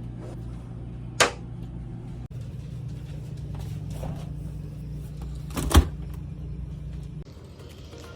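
RV cabinet doors being shut: two sharp knocks about four and a half seconds apart over a steady low hum, which drops away near the end.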